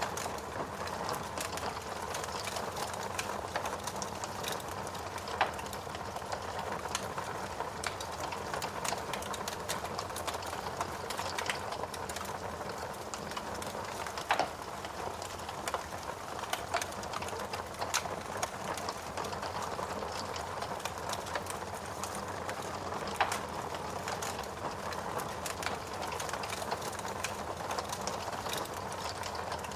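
Steady rain hissing with a wood fire crackling over it: irregular sharp pops and snaps scattered through the even wash of rain.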